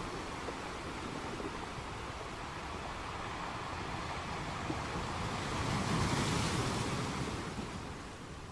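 Sea surf: waves washing in, one swelling to its loudest about six seconds in and then falling back.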